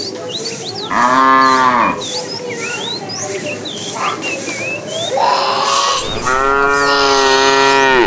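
Cow mooing twice: a short moo about a second in, then a longer, louder moo from about five seconds in.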